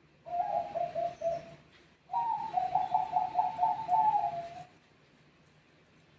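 Zebra dove (perkutut) cooing: a short phrase of quick pulsed coos, then about half a second later a longer one that starts higher and drops in pitch at its end.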